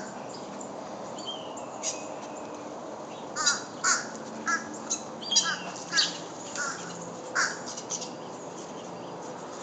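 Corvids calling: a run of about ten short calls in the middle stretch, spaced unevenly, with a few thin high chirps from small birds earlier on, over a steady low background hum.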